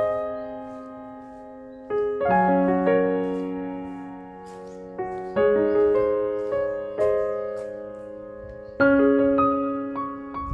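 Slow background piano music: soft chords struck about every three seconds and left to ring out.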